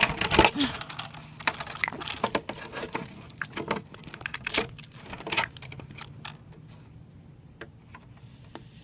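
Irregular small clicks and plastic rattles of hands plugging the battery leads together inside a radio-controlled truck, busiest for the first five or six seconds and then thinning out.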